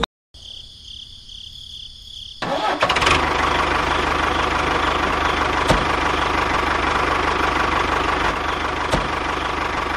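A faint steady high whine, then an engine-like machine sound starts about two and a half seconds in and runs steadily, with a low even pulse. There are a couple of light clicks in the middle and near the end.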